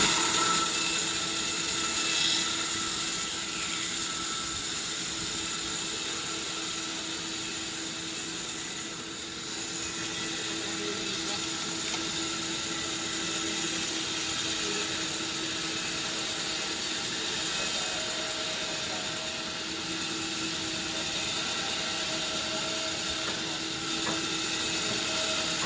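Sawmill machinery running steadily, with a high whine over a lower hum. It dips briefly about nine seconds in.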